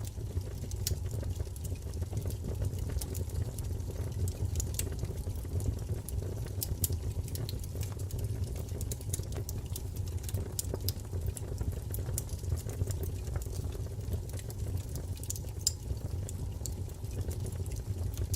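Wood fire burning in a fireplace: a steady low rumble of flame with many small, irregular crackles and pops.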